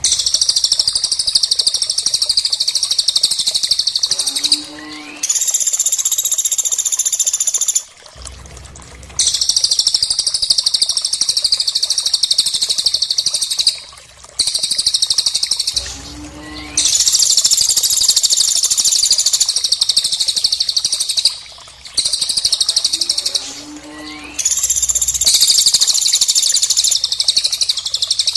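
Recorded bird song: long stretches of loud, high, rapid twittering, each lasting several seconds with short breaks between. In each break a fainter, lower call rises in pitch. The sequence repeats about every twelve seconds, as in a looped training track.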